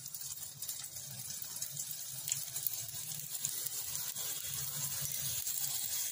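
Twisted maida dough pieces sizzling as they deep-fry in hot oil, a steady hiss with small crackles that grows louder as the pieces go in.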